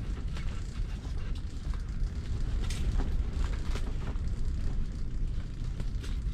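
Strong wind buffeting the microphone in a constant low rumble, with scattered snaps and creaks from the ice-fishing shelter's fabric and frame.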